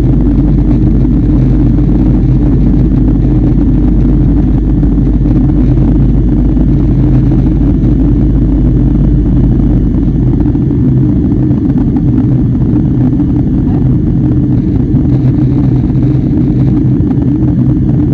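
Airliner cabin noise heard from a window seat: a steady engine drone over a constant rush of airflow. The deepest rumble drops away about ten seconds in while the drone carries on.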